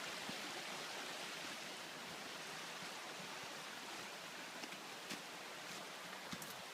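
Rushing river water: a steady, even rush with a few faint ticks in the last couple of seconds.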